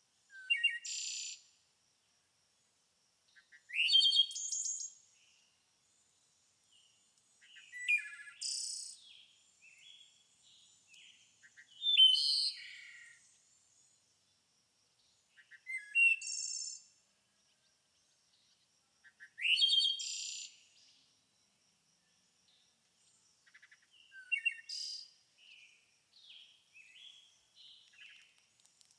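A songbird singing short, high-pitched phrases, one roughly every four seconds, with quiet gaps between; softer chirps come near the end.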